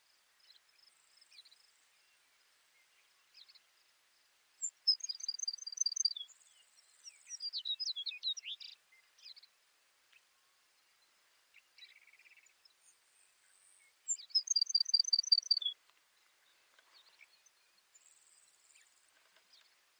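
Baird's sparrow singing twice, about five and fourteen seconds in; each song is a rapid run of high, evenly repeated notes lasting over a second. Fainter high chirps and short buzzy notes come between the songs.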